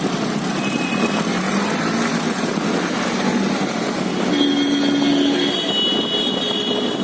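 Road traffic noise: the engines and tyres of passing vehicles, with a steady tone sounding for about a second past the middle.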